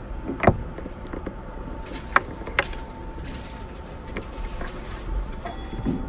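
Electric commuter train running, heard from inside the lead car: a steady low rumble with a constant hum and a few sharp clicks from the running gear and car body.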